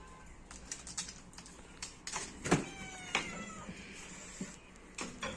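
A domestic cat meowing twice, short calls that fall slightly in pitch, amid scattered light clicks and taps. The meowing comes from a cat squabble that turns into loud caterwauling just after.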